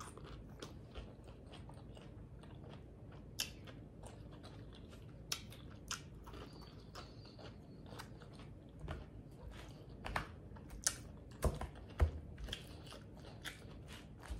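Close-up mouth sounds of a person chewing and biting salad: many small wet clicks and smacks, growing louder and more frequent about ten to twelve seconds in.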